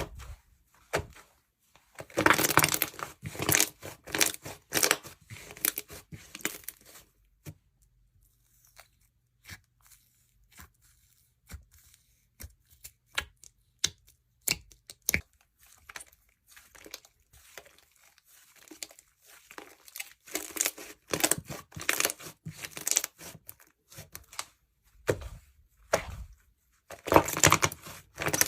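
Jewelry slime being squeezed and stretched by hand, giving dense runs of sticky, crackly popping clicks, with quieter stretches of scattered single clicks between them.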